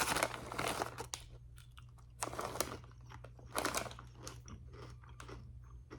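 Potato chips crunching as a person chews them, with irregular crunches about every half second, over a low steady hum.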